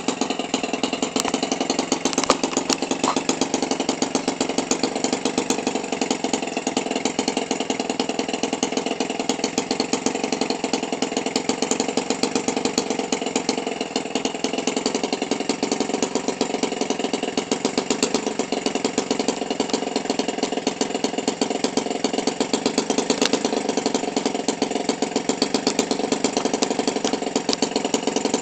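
Toro 28cc string-trimmer engine, converted for RC airplane use, idling steadily at about 1500 RPM and running smoothly.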